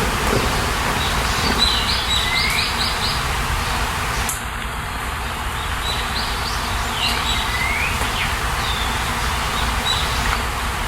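A songbird singing two short phrases of quick high chirps with a short sweeping note, over a steady rushing background.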